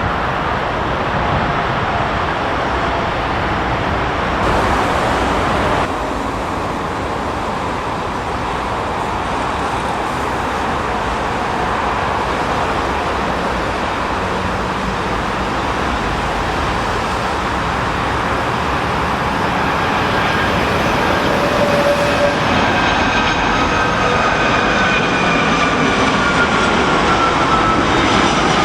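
Jet airliner engines running loud and steady over heavy storm-wind rumble. Near the end a high engine whine comes in and slowly falls in pitch as the aircraft passes.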